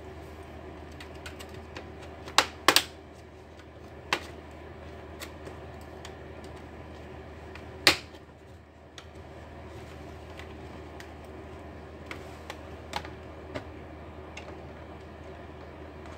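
Sharp plastic clicks and taps from hand tools working on an Acer Nitro laptop's casing during disassembly: a loud pair about two and a half seconds in, another near the middle, and lighter taps later, over a steady low hum.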